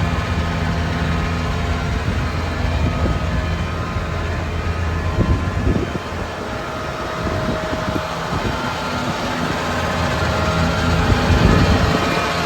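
John Deere 9R 440's 13.6-litre six-cylinder diesel engine idling steadily.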